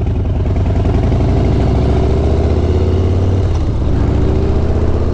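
Harley-Davidson Sport Glide V-twin engine running at low revs, steady, with the revs picking up slightly a little past halfway.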